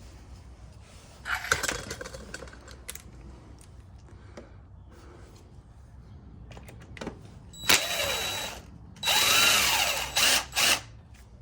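Power drill driving in bolts: a run of about a second some eight seconds in, then a longer run with its motor pitch rising and falling, and two quick blips near the end. A brief clatter of parts being handled comes earlier.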